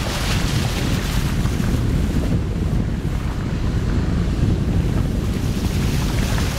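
Suzuki Swift car pushing through deep floodwater: a steady rush and slosh of water against the car over a low rumble.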